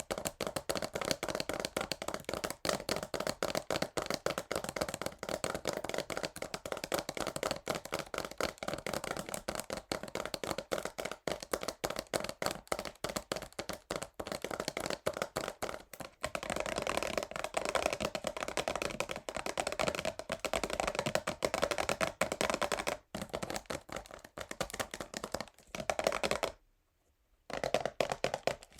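Fast, continuous fingernail tapping on a cardboard perfume box, a dense run of quick clicks, breaking off for about a second near the end before it starts again.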